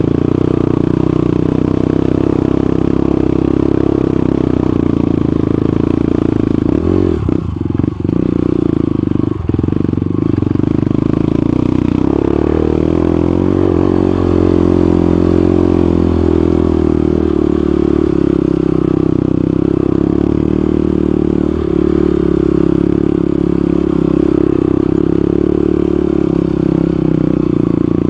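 Motorcycle engine running steadily while riding, with a couple of brief dips about seven to ten seconds in.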